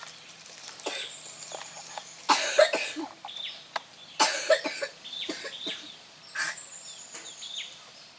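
Birds chirping in short, repeated calls, with two harsh bursts of about half a second each, about two seconds apart, standing out as the loudest sounds.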